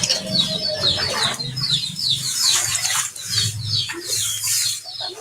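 Small birds chirping: many short, high chirps, each falling in pitch, in a quick run, over a steady low hum.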